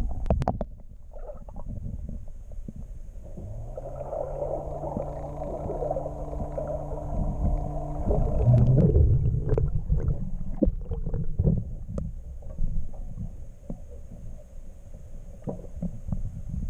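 Low rumbling wind and water noise on the microphone, broken by scattered knocks. A steady hum with a few even tones comes in about three seconds in and stops about five seconds later, followed by a louder rumble.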